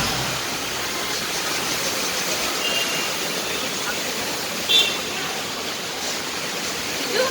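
Steady rush of water, with a faint short high tone about three seconds in and a louder brief one near the five-second mark.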